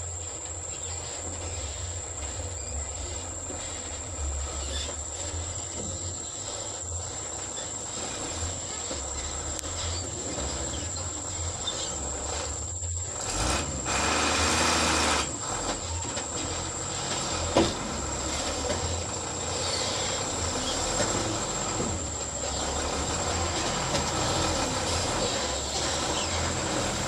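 Heavy truck engine running with a low, wavering rumble, under a steady high-pitched insect trill. About halfway through, a louder rush of noise lasts a couple of seconds, and a short sharp knock follows soon after.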